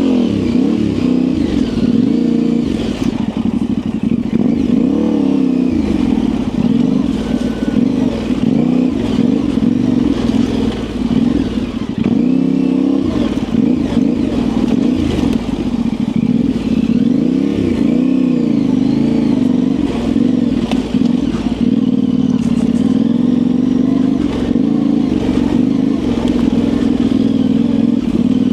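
Yamaha Ténéré 700's parallel-twin engine running at low, varying revs through an aftermarket high exhaust, its pitch rising and falling with constant small throttle changes. Light clatter runs under it.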